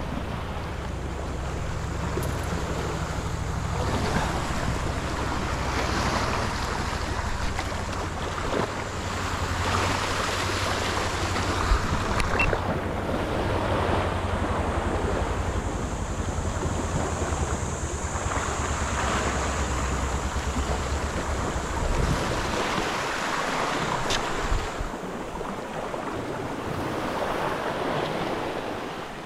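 Sea water washing and splashing against a boat in surges every few seconds, with wind buffeting the microphone. A low rumble underneath stops about two-thirds of the way through.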